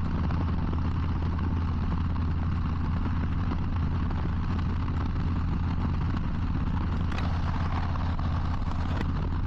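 Harley-Davidson Low Rider ST's Milwaukee-Eight 117 V-twin running steadily under way, a constant low drone with a steady rushing hiss over it.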